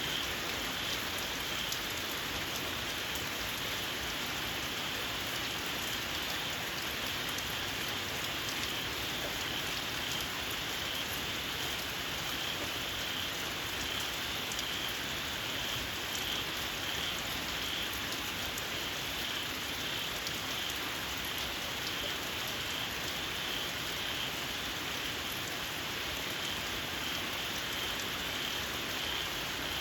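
Steady rain falling, with a continuous shrill, high-pitched chorus of small frogs calling underneath it.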